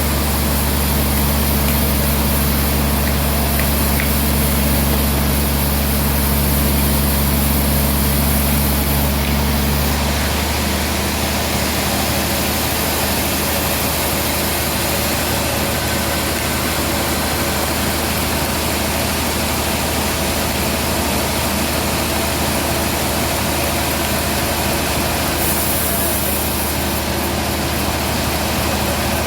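Band sawmill running with a steady, loud machine noise; its low hum changes about ten seconds in, then carries on steady.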